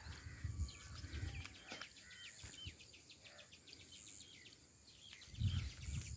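Small birds chirping repeatedly in the background, with low rumbling bursts in the first second or so and again near the end.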